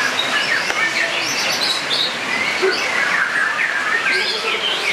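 Many caged songbirds chirping and singing at once, in dense overlapping runs of short, quick notes over a steady background hiss.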